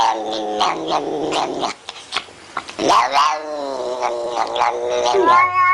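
A cat yowling in long, drawn-out, wavering calls, with a short lull about two seconds in before it starts again.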